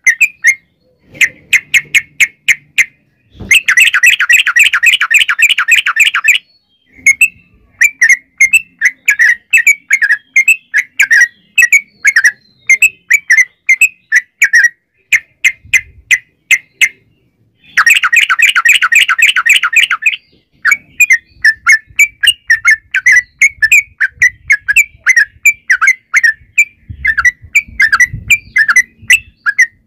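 Yellow-vented bulbul singing: fast strings of short chirping notes, broken twice by a long, rapid rolling trill of about two and a half seconds each.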